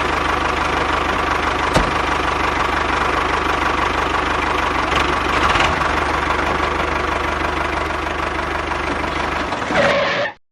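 A small engine running steadily at an even idle, with one sharp click about two seconds in; it cuts off suddenly near the end.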